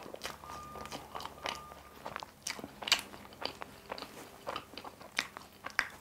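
Close-miked chewing of a crisp, flaky cream-filled pastry: irregular sharp crunches and crackles, a few a second.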